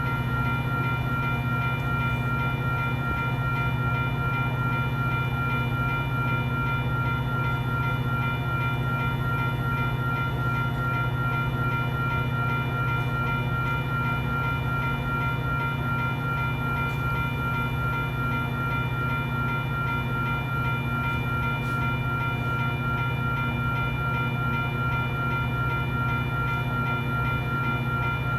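Metra diesel locomotive idling, a steady, unchanging drone with a constant whine above it.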